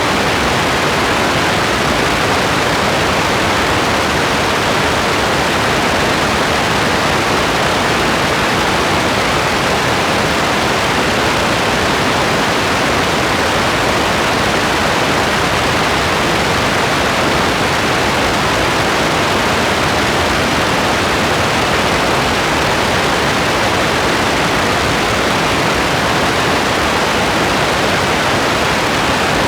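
Steady rain, an even, unbroken hiss with no single drops, gusts or thunder standing out.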